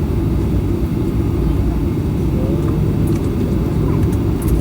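Steady low rumble of a Boeing 737-800's CFM56-7B engines running, heard from inside the passenger cabin, with a few faint ticks near the end.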